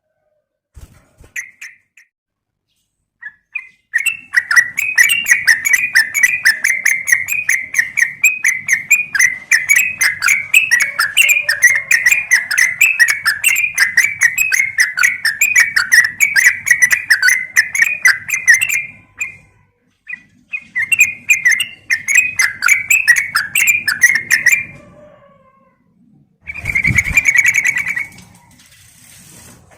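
Yellow-vented bulbul (trucukan) call used as a lure: a female calling to males. A few short notes lead into a long run of rapid chattering notes, then after a brief pause a shorter run, and near the end a denser burst over a low thump.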